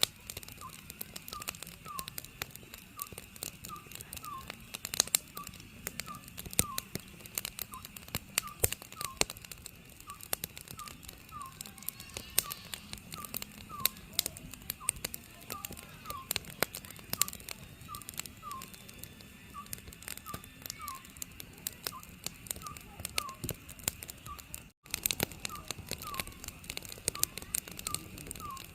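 Oriental scops owl calling, a short hoot repeated steadily about once a second, over a wood fire crackling with irregular sharp pops. The sound cuts out for an instant near the end.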